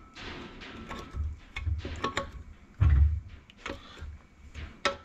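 Irregular metallic clicks and clinks of hand tools and parts during work on a Tofaş gearbox, with dull low knocks, the heaviest about three seconds in.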